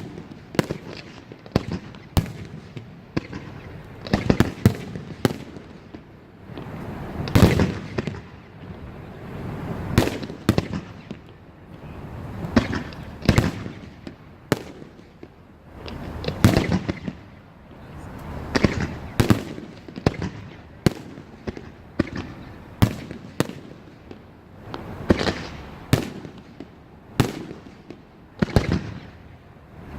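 Fireworks finale: aerial shells bursting in quick succession. Sharp bangs come one to two a second, with heavier booms every few seconds that each trail off in a rumbling echo.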